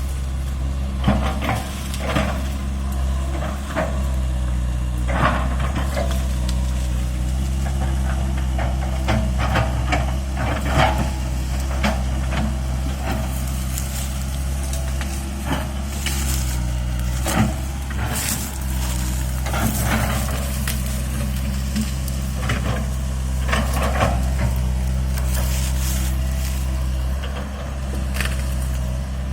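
Komatsu PC160-8LC hydraulic excavator's diesel engine running steadily under digging load, with irregular scrapes and knocks of the bucket working hard topsoil.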